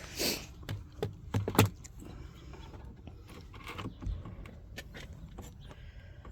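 Wooden beehive frames and parts being handled: a short scrape, then several sharp knocks and clicks in quick succession, then quieter scattered clicks.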